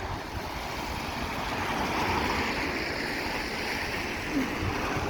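Steady hiss of tyres on a rain-soaked road, swelling about two seconds in as a vehicle passes and then easing off.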